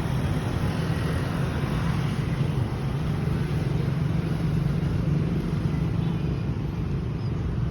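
Steady low rumble of road traffic, an even hum without breaks.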